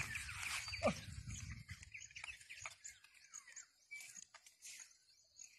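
Small birds chirping: many short downward-sliding notes, with one louder falling note a little under a second in. Wind rumbles on the microphone through the first two seconds.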